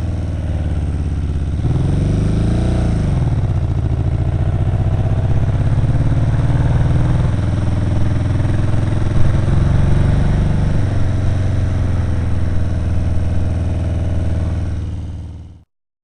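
Kawasaki KZ750 motorcycle engine running steadily, with a brief rise and fall in engine pitch about two seconds in. It fades out just before the end.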